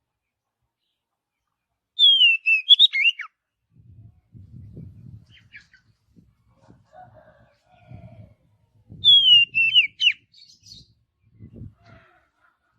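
Oriental magpie-robin (kacer) singing two short whistled phrases about seven seconds apart, each a falling slurred whistle broken by quick upward flicks. Faint low rumbles sound between the phrases.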